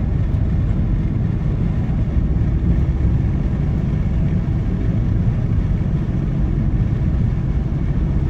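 Steady road noise of a car driving at highway speed, heard from inside the cabin: a low, even rumble of tyres and engine.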